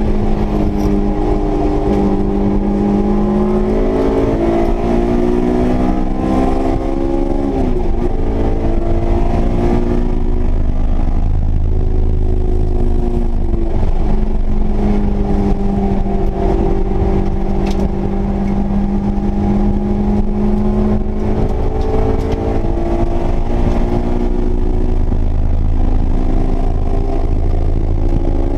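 Honda S2000's high-revving four-cylinder engine working hard on a race track, its pitch climbing under throttle and dropping sharply about eight seconds in, then holding high and rising and falling again, over a steady rumble of road and wind noise.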